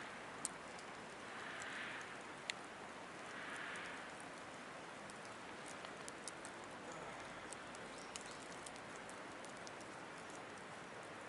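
Wood fire crackling and popping in a Picogrill 760 fire stand: a steady hiss with frequent small snaps, two sharper pops in the first few seconds, and a few soft swells of rushing noise.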